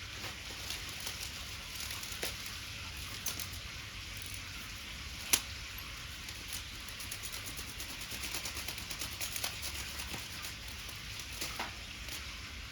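Wood bonfire crackling: a steady hiss with irregular small pops, and one loud sharp pop about five seconds in.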